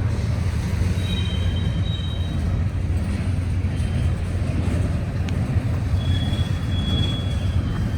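Norfolk Southern freight train's cars rolling past with a steady low rumble, with thin high-pitched wheel squeals starting about a second in and again from about six seconds in.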